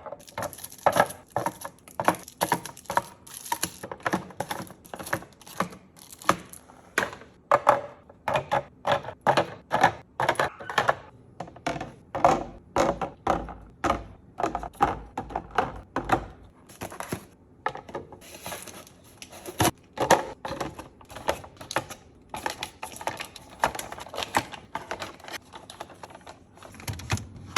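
Quick, irregular clicks, taps and knocks of kitchen items and packaging being handled and set down while restocking, several a second.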